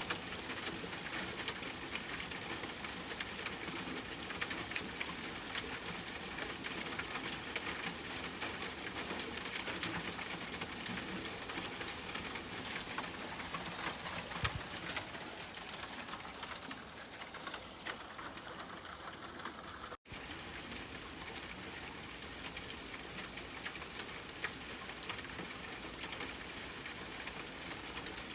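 Steady rain, a dense patter of drops falling on a surface, broken by a very brief dropout about two-thirds of the way through.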